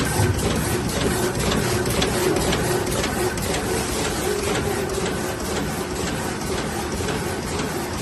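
Plastic-bag roll cutting machine running: a steady mechanical hum with fast, irregular clicking and rattling.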